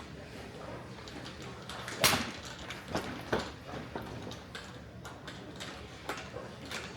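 A sharp crack of a golf club striking a ball about two seconds in, the loudest sound, followed by several fainter sharp clicks of strikes.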